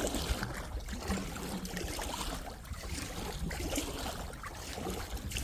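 Paddle strokes in river water with water trickling and dripping off the blade, under a steady low rumble.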